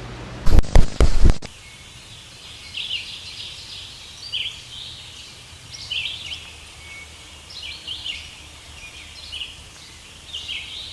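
A few loud knocks about half a second in, then birds chirping in short, repeated phrases.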